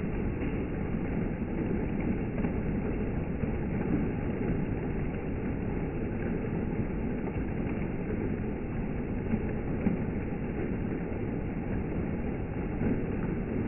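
Steady rain falling: a constant rushing noise, with now and then a brief louder tick.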